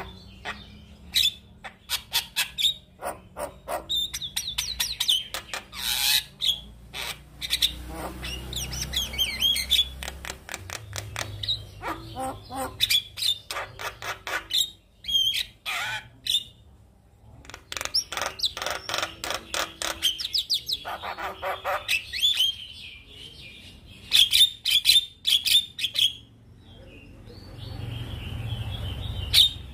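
Male Javan myna singing a long, varied song: rapid runs of sharp clicks and rattles mixed with quick whistled and chattering notes, broken by a few short pauses.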